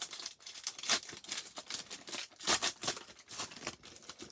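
Plastic wrappers of trading-card packs crinkling and tearing in irregular crackles and rustles as the packs are ripped open.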